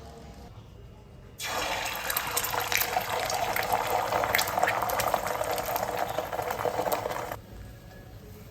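Running water gushing for about six seconds, starting and stopping abruptly, like a tap turned on full and then off.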